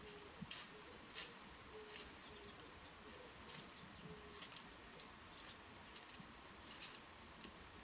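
Japanese white-eye giving short, high, sharp chirps in an irregular series, about one or two a second, as it confronts its own reflection. Faint low dove coos sound underneath in the first half.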